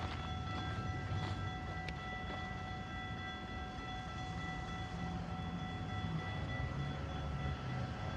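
GO Transit commuter train rolling past: a steady low rumble with several faint, steady high-pitched tones over it.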